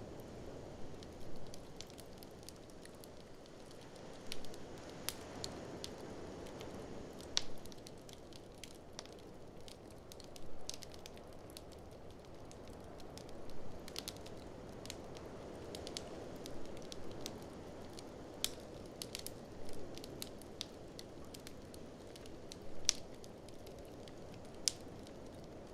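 Wood fire in a fireplace crackling, with sharp pops at irregular intervals, over a steady low rushing noise that swells and eases a couple of times.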